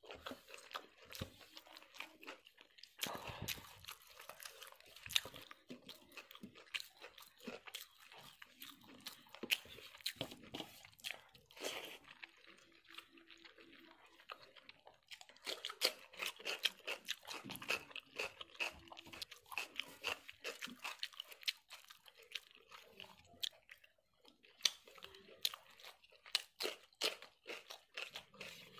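Close-miked chewing and mouth sounds of someone eating rice with mutton liver curry by hand: a dense run of small wet clicks and crunches. Fingers mix and squelch rice and gravy on a steel plate.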